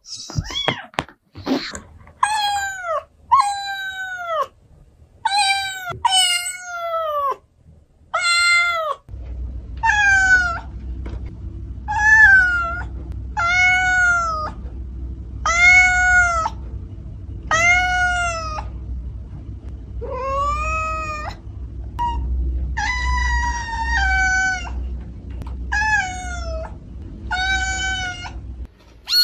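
Domestic cat meowing over and over, about one drawn-out meow a second, each call rising and then falling in pitch.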